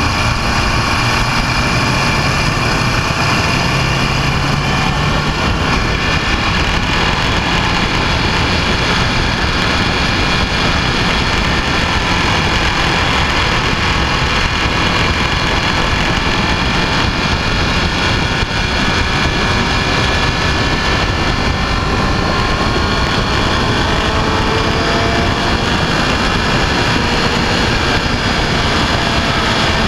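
Motorcycle on the move: engine running under steady wind noise on the microphone, with faint engine tones gliding up and down in pitch.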